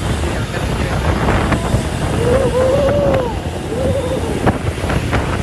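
Highway traffic with trucks passing, a steady low rumble with wind buffeting the microphone. About two seconds in, a wavering pitched tone rises and falls twice over about two seconds.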